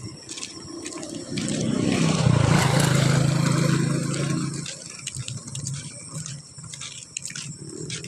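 A motor vehicle passing, its engine sound swelling for about three seconds and then fading, with short high clicks or chirps going on throughout.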